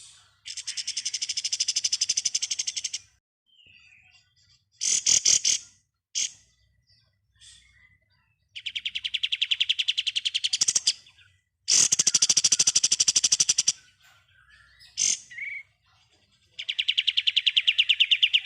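Kapas tembak songbird singing in the 'ngebren' style: four long, rapid machine-gun-like rattling trills of about two to three seconds each, with short sharp notes in between.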